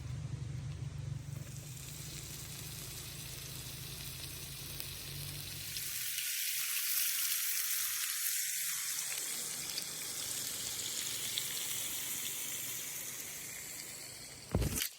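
Food sizzling and frying in a pan: a steady hiss that grows louder about six seconds in.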